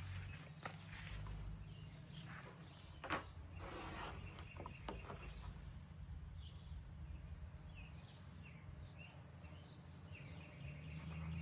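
Faint outdoor ambience with a steady low hum, birds chirping faintly through the middle, and a few light clicks.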